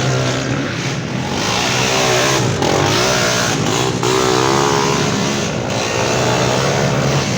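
Off-road trail motorcycles revving in a muddy bog, engine pitch rising and falling repeatedly over another engine running at a steady pitch.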